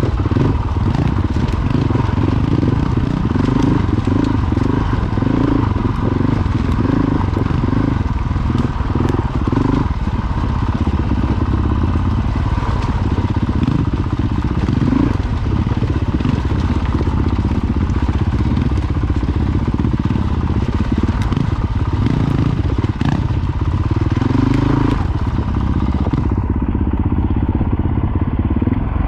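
Honda CRF450L dual-sport motorcycle's single-cylinder four-stroke engine running steadily under way, mixed with wind and road noise.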